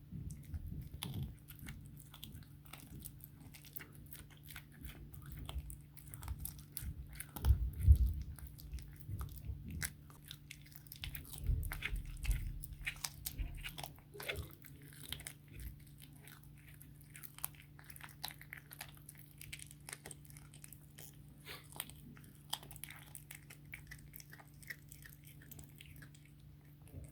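Blue tortoiseshell cat chewing and crunching raw chicken-back bones: a dense, irregular run of teeth crunches and clicks, with a few heavier thumps about eight seconds in and again around twelve seconds. A steady low hum runs underneath.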